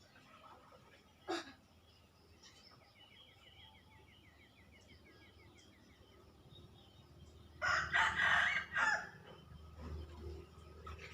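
A rooster crows once, loudly, about two-thirds of the way in, over faint scattered bird calls. Earlier there is a faint rapid trill of ticks.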